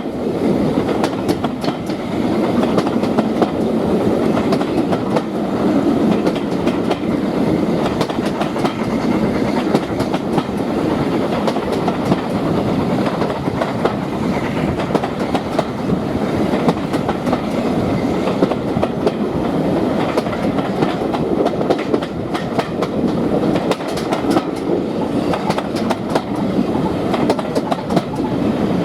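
Train running along the line, its wheels clattering over the rail joints under a steady rumble.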